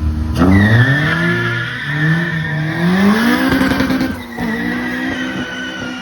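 Car engine at full throttle launching down a drag strip, its revs climbing and falling back in steps through quick gear changes. The sound drops away sharply a little after four seconds in.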